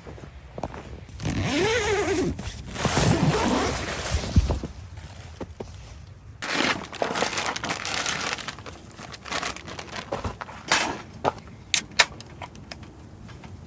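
Handling noise: a few seconds of rustling and scraping, then a run of sharp clicks and knocks.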